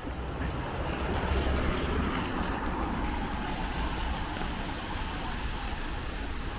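A vehicle passing on a wet street, its tyres hissing on the wet asphalt. The hiss swells over the first two seconds and then slowly fades.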